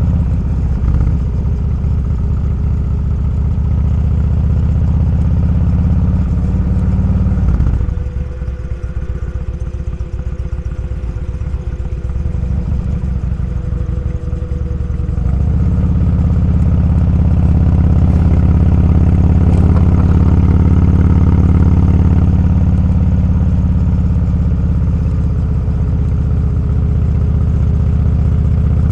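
Motorcycle engine running while riding. About eight seconds in, the engine note drops as the throttle eases off for several seconds. It picks up again and runs steadily.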